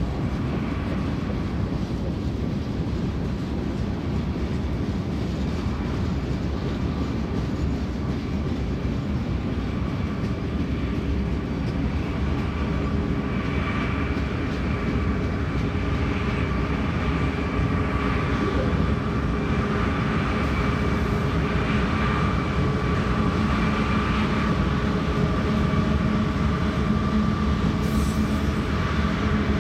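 BNSF mixed freight train's autorack cars rolling past, a steady rumble and clatter of wheels on rail. From about halfway through, a thin high squeal comes and goes over it.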